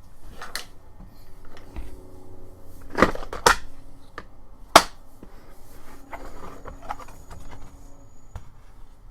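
Hand tools and sockets being handled and set down: a scatter of sharp clicks and knocks, four of them standing out, the loudest a little before the five-second mark.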